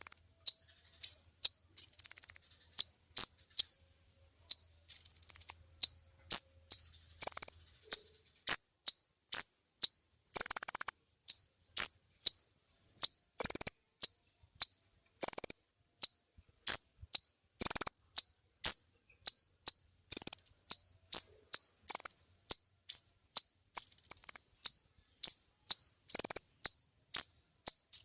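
Sunbird calls: a quick, steady run of short, high chirps, about two a second, with a few longer, buzzier notes mixed in, as used in a bird-lure recording.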